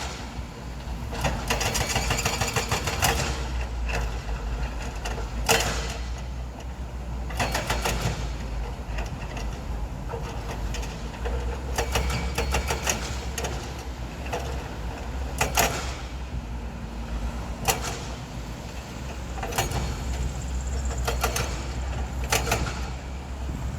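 Heavy earthmoving machinery running: a steady low engine rumble with irregular sharp knocks and clanks every few seconds.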